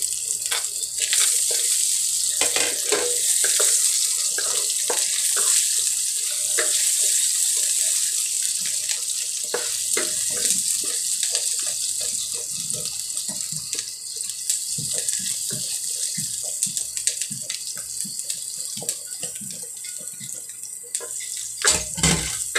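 Chopped onions sizzling in hot oil in a non-stick wok, a steady hiss, with a spatula scraping and tapping the pan now and then as they are stirred.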